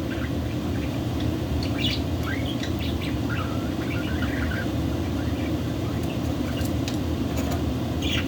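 Pet budgerigars giving short, scattered chirps, mostly in the middle of the stretch, over a steady low background hum.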